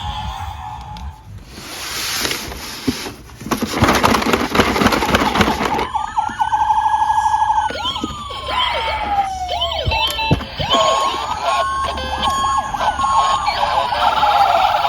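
Small toy cars rattling and scraping down a ramp in loud bursts. About six seconds in, overlapping police siren sounds take over: a fast warble, slow rising-and-falling wails, a two-tone hi-lo and a quick yelp near the end.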